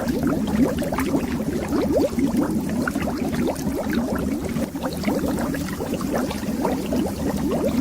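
Steady stream of underwater bubbles, many small bubbles popping and gurgling in quick succession, each a short upward blip.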